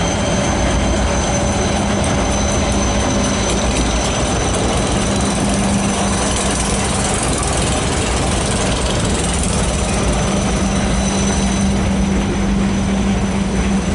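Diesel-hauled freight train passing close by: a steady loud rumble of locomotive engines and freight cars rolling over the rails, with a constant low engine drone.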